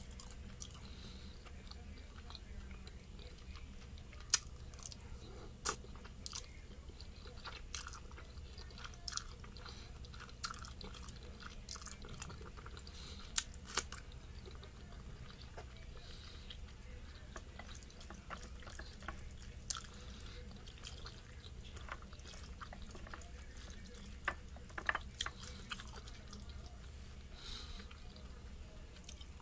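A person chewing noodles, with scattered sharp wet mouth clicks; the loudest click comes about four seconds in.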